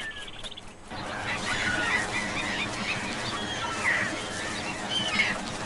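A flock of wild geese calling, many short overlapping honks, starting about a second in.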